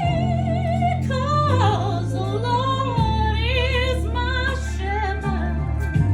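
A voice singing a melody with wide vibrato, operatic in style, over sustained low accompaniment notes that change every second or two.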